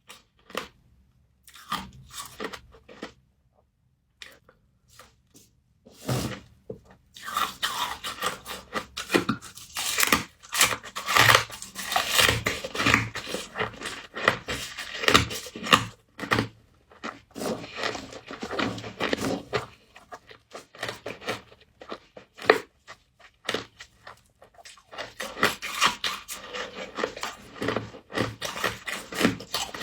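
Close-up crunching and chewing of humidifier-grown freezer frost. Scattered small clicks give way about six seconds in to dense runs of crunchy bites, with a few short pauses.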